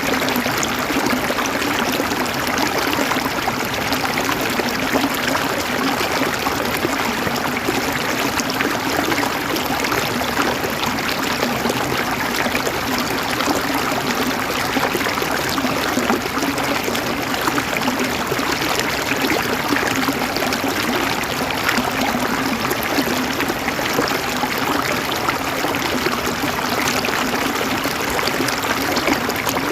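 River water running over stones, a steady babbling and gurgling rush with no pauses.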